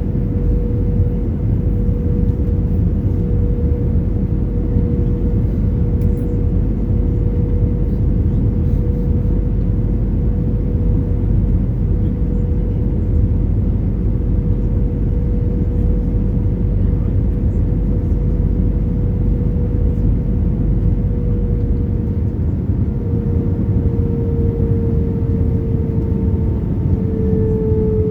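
Airbus A320 cabin noise in flight: a steady roar of jet engines and airflow with a droning tone over it. Near the end the tone wavers and drops slightly, as the engine thrust changes.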